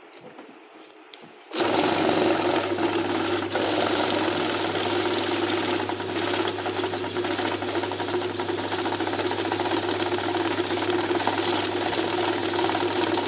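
Banknote counting machine starting up about a second and a half in and running steadily, whirring as the notes feed through.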